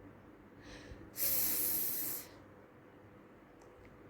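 A person voicing the phonics sound /f/ as a drawn-out breathy 'fff' hiss lasting about a second, after a fainter short hiss.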